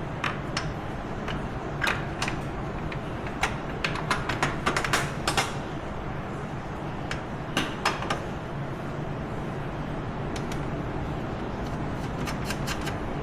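Small metal hardware clinking and clicking as it is picked through by hand, in irregular clicks with a dense run of them about four to five seconds in. A steady low hum lies underneath.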